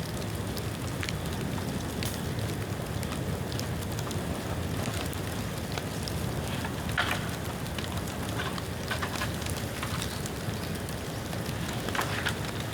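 A bonfire of rain-damp bamboo and bamboo branches burning: a steady rush of flame with scattered sharp crackles and snaps, a few louder ones about seven seconds in and near the end.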